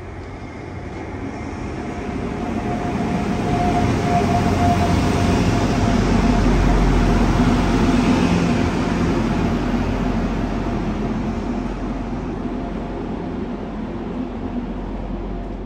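Diesel train moving past at close range. It grows louder to a peak about halfway through, with a steady engine hum under the rail noise, then fades.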